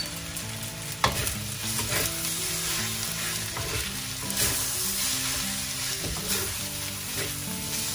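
Fried rice sizzling in a wok as it is stir-fried with a metal spatula, which scrapes and knocks against the pan. The sharpest knock comes about a second in.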